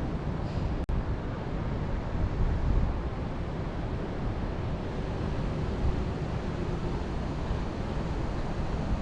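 Wind blowing through a mountain forest, a steady rushing noise with heavy low rumble from wind on the microphone. A faint, brief high call, like a bird, comes about half a second in, and the sound cuts out for an instant just before one second in.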